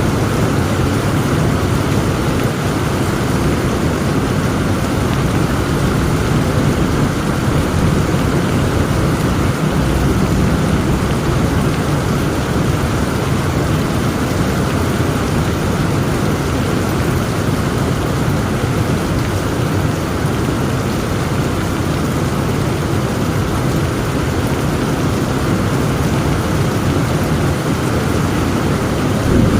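Heavy rain pouring steadily, with a continuous low rumble of thunder beneath it and no separate cracks.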